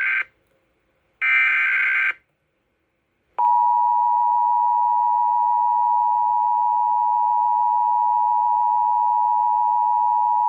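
Emergency Alert System broadcast header. The screeching digital data bursts of the SAME header end, the last one about a second long. After a short gap, the two-tone EAS attention signal sounds: a harsh, steady two-note tone held for about eight seconds, announcing a severe thunderstorm warning.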